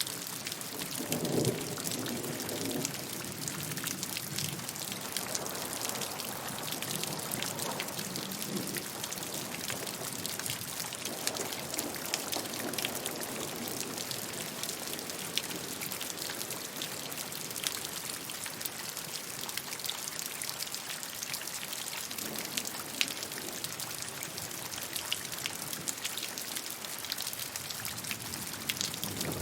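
Steady rainfall, dense pattering of drops, with a few soft low swells such as distant rumbling.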